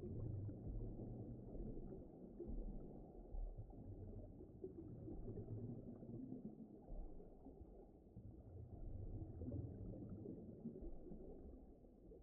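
Faint, low, muffled rumbling wash of an ocean-ambience background track, swelling and ebbing gently with no distinct events.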